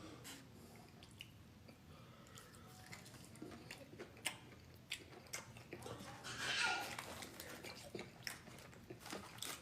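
Close-up chewing and biting of Wingstop boneless wings and fries, with scattered small mouth clicks and crunches.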